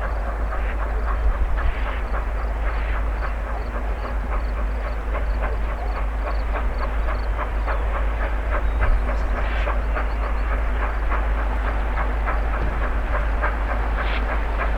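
1929 2-8-2 steam locomotive and its train running, with a rapid, even clatter over a steady low rumble.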